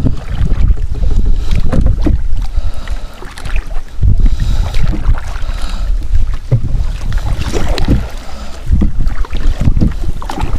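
Wind rumbling on the microphone over water sounds from a paddled kayak.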